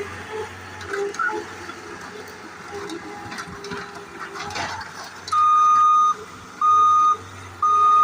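Skid steer's backup alarm beeping as it reverses, three long, steady beeps in the last third, over the running engine and clattering debris.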